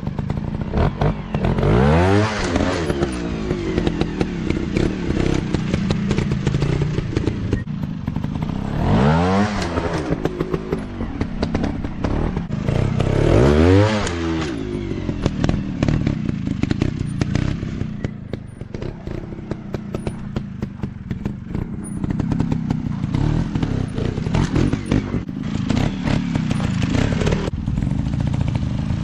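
Dirt bike engine running over rough ground, with three sharp revs that climb and fall back and a fourth starting near the end.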